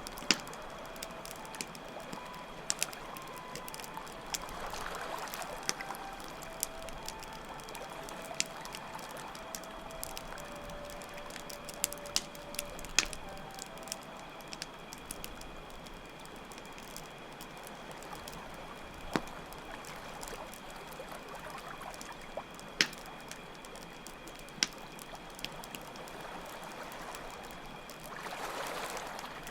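Campfire crackling with scattered sharp pops over the steady rush of running water. Crickets chirp continuously in a high, even tone. A faint, slow flute melody drifts in the first half.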